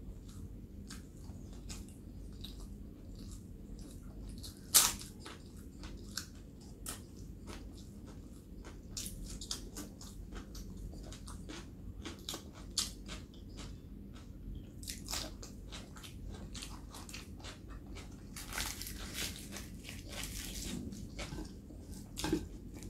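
Close-miked chewing and wet mouth sounds of a person eating a large mouthful, with many small clicks and one sharp click about five seconds in. Near the end come the sounds of a puri being torn by hand and dipped into the curry with the fingers.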